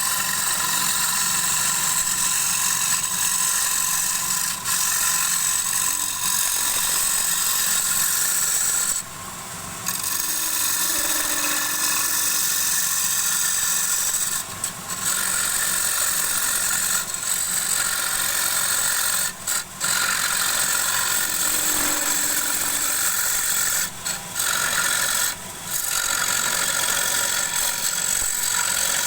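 Wood lathe running while a turning tool cuts a spinning wooden bowl blank: a steady scraping hiss over the motor's hum, broken by a few short gaps where the tool leaves the wood.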